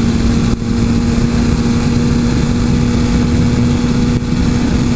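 Suzuki GSX-R 1000 inline-four engine running at a steady pitch under way, with heavy wind noise over it. The sound dips briefly twice, about half a second in and again near the end.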